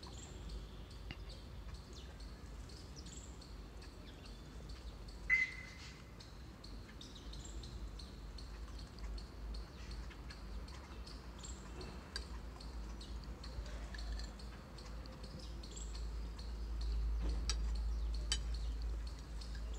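Small birds chirping now and then, short high calls scattered throughout, with one louder call about five seconds in. A low rumble runs underneath and grows stronger near the end.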